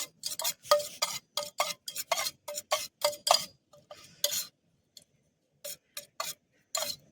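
A spoon scraping and clinking against a bowl in quick repeated strokes as cut paneer and onion are stirred into an oily masala. The strokes come about three a second, then thin out to a few scattered ones about two-thirds of the way through.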